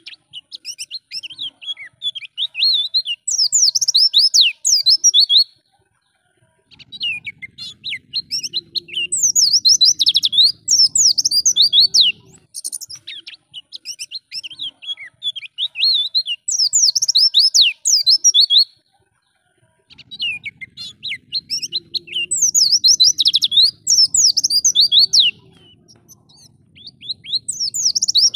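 White-eye (pleci) singing a fast, chattering song of quick, high, sliding notes. It comes in bursts of about five seconds, broken by brief pauses.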